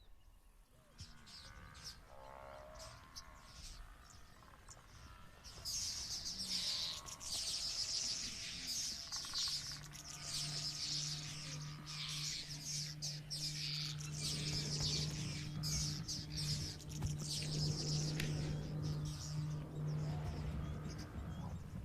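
Many birds chirping busily, thickening about six seconds in, with a low steady hum underneath from about ten seconds in.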